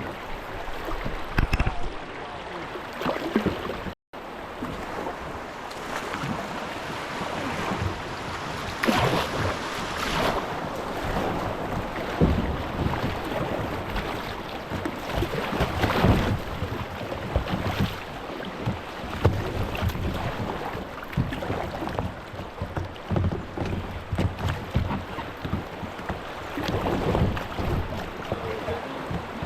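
Kayak paddle strokes splashing in flowing creek water, in irregular swells every second or two.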